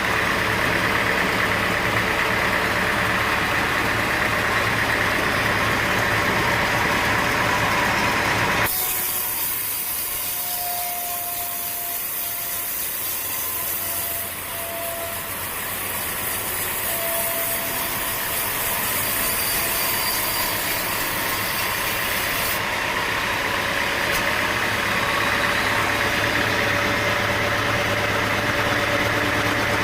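Sawmill machinery running steadily with an engine-like drone. The sound changes abruptly about a third of the way through to a thinner, hissier sound with faint whistling tones, and shifts again about two-thirds of the way through.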